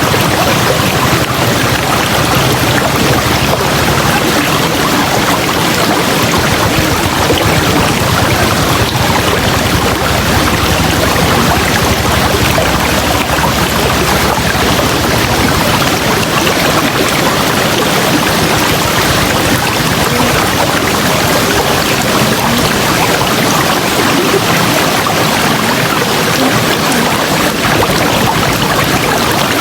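River water rushing and splashing over rocks, a steady, loud, even rush.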